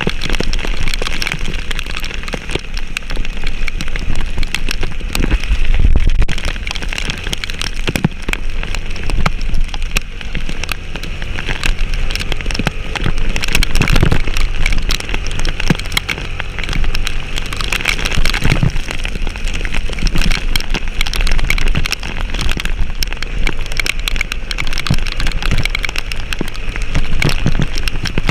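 Heavy rain pattering on a surface in dense small drops, over a steady low rumble from a moving vehicle.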